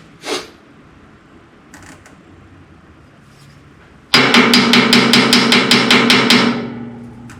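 Rapid metallic tapping, about six strikes a second, starting suddenly and fading out after two to three seconds.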